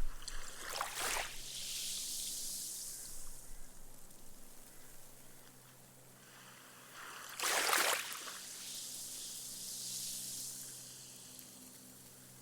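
Small, gentle sea waves lap onto a sandy beach, twice. Each is a short splash, about a second in and again past seven seconds, followed by a fading fizz as the foam soaks away into the sand.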